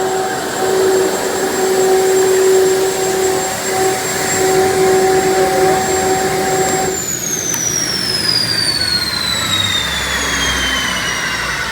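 Boeing T50 gas-turbine engine running with a steady high whine, then shut down about seven seconds in: the lower tones cut off and the whine falls steadily in pitch as the turbine spools down.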